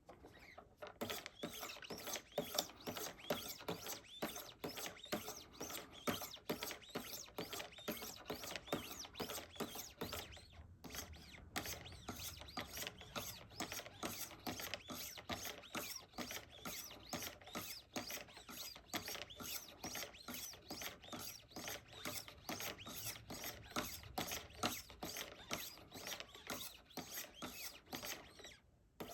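Rhythmic rasping strokes of 1000-grit sharpening stones on a Wicked Edge Go guided sharpener, drawn over and over along a knife blade's CPM CruWear steel, with a short pause about ten seconds in.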